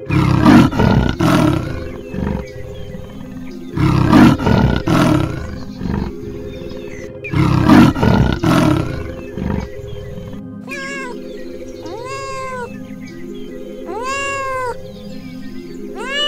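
A big cat roaring three times, each call long and rough, about three and a half seconds apart; then, after an abrupt change, a domestic cat meowing about four times. Background music plays underneath.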